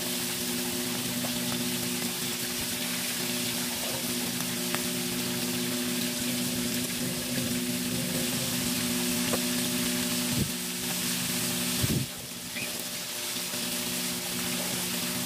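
Breaded scallops deep-frying in a pan of hot oil, a steady sizzle over a low hum. Two dull knocks come near the end, and the sizzle dips briefly just after the second.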